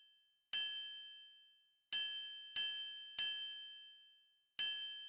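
Triangle struck five times, each strike ringing out bright and high and fading away; the last three come in a quick run.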